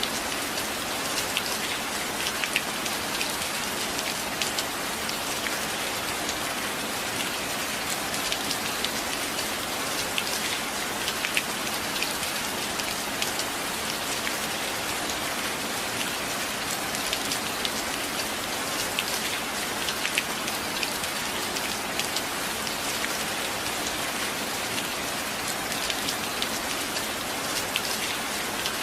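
Steady rain: a dense, even hiss with many single drops ticking sharply through it.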